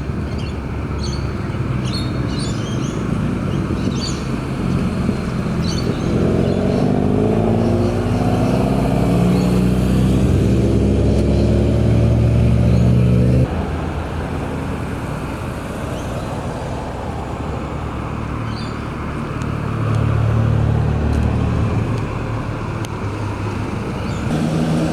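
Car engines running as cars drive slowly past. One engine rises in pitch as it accelerates, then the sound cuts off abruptly about halfway through to another car's engine, which swells as it passes near the end.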